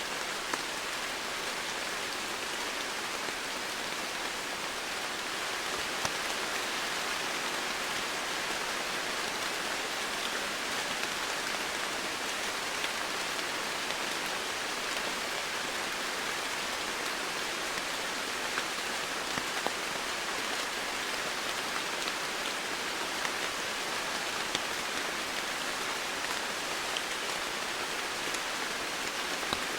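Steady rain falling, a constant hiss with scattered individual drops ticking on surfaces.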